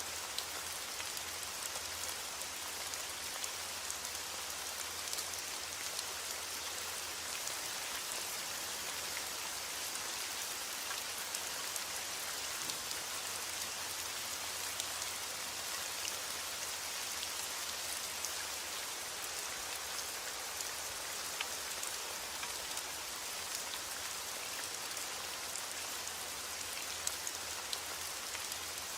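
Steady rain falling, a dense even hiss with many fine drop ticks on a hard surface.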